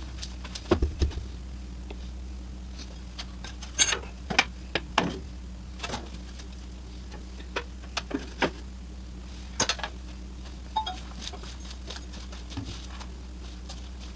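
Scattered, irregular clicks and knocks of hand tools such as ratchets working on metal engine-mount hardware, over a steady low hum.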